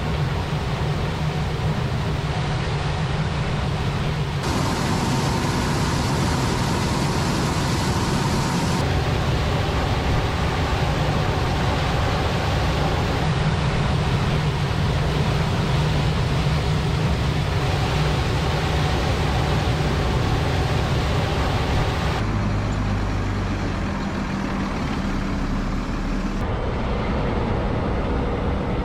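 Heavy machinery engines running loud and steady, with the sound changing abruptly several times as different machine clips are cut together.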